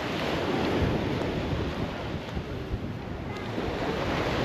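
Ocean surf washing onto the beach, with wind rumbling on the microphone; the wash swells about a second in and eases a little before building again.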